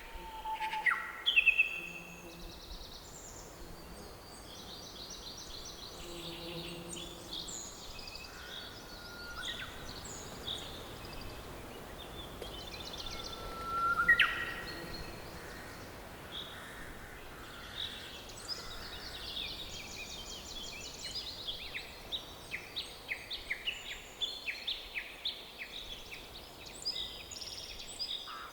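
Several birds calling and singing over a soft, steady background hiss, with many short chirps and trills. The loudest calls come about a second in and about halfway through, and a quick run of repeated chirps fills the last third.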